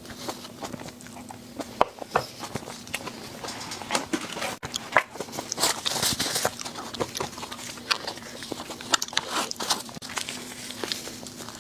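Close-miked eating sounds: a dense, irregular run of bites, chewing clicks and crunches, over a faint steady hum.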